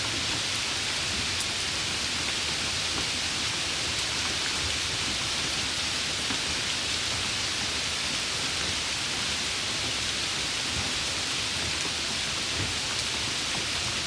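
Steady rain: an even, dense hiss of falling rain with no breaks, and a faint low rumble underneath.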